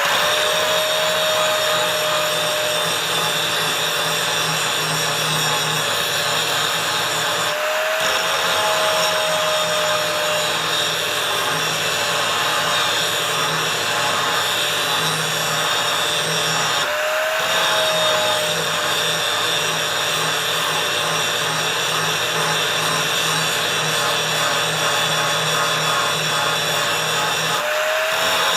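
Angle grinder with an aggressive abrasive disc grinding forged steel: a steady loud grinding whine that pauses briefly three times and spins back up each time.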